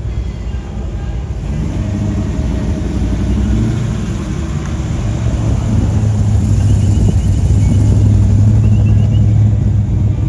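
Car engine running with a steady low rumble, getting louder about halfway through and holding a steady low note near the end.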